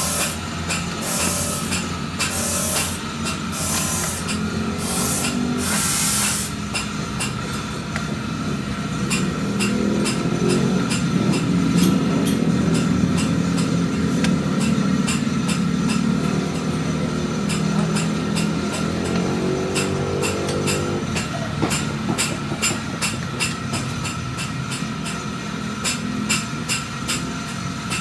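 Motorcycle engine running through a replica CMS Dr.sound aftermarket exhaust fitted with a Gen 1 baffle packed with white glass wool, as a sound check. After a few hissy blips at the start, the engine is held at higher revs for about ten seconds midway, then drops back to an uneven idle.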